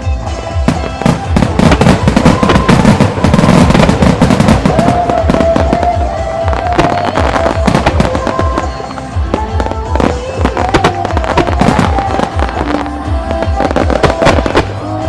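A musical starmine fireworks barrage: shells bursting and crackling in rapid succession over loud synchronized music with a steady pulsing beat. The bursts are densest from about one to five seconds in.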